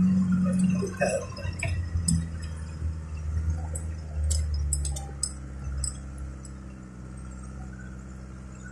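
Car engine running steadily under load in low gear, heard from inside the cabin while driving on a snow-covered track, with scattered light clicks and clinks. The engine note is strongest in the first second and then eases off.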